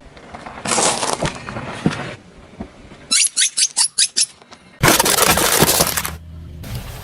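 Brittle objects crunching and breaking as they are crushed, in three separate bursts. The middle burst is a quick run of about seven sharp cracks, and the last one is the loudest.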